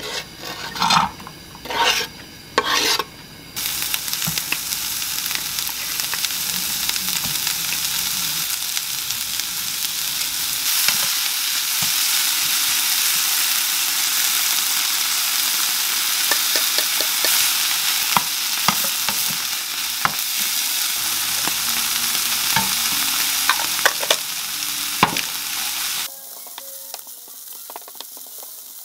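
Chopped onion and green onion are scraped off a wooden board into hot oil in a nonstick frying pan in three short bursts. Then the vegetables and canned tuna sizzle steadily as they stir-fry, with a wooden spatula scraping and tapping the pan. The sizzle cuts off suddenly near the end.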